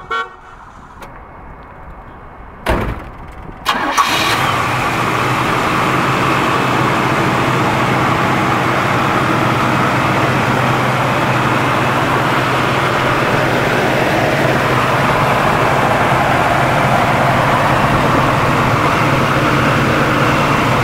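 Oldsmobile 403 V8 starting about three to four seconds in, then idling steadily.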